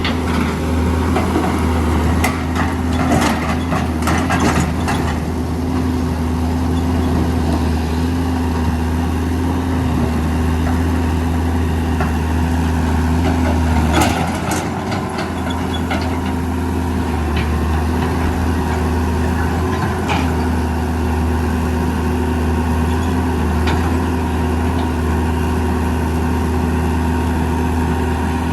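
Diesel engines of a working excavator and a dump truck running steadily. Clatters come a few seconds in, and a sharp knock comes about halfway, as sand and rocks are loaded into the truck's steel bed.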